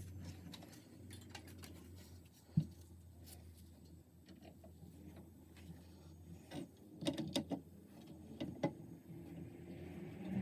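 Clicks and knocks of small metal tool parts being handled: one sharp knock about two and a half seconds in, a cluster of clicks around seven seconds and another knock near nine, over a low steady hum.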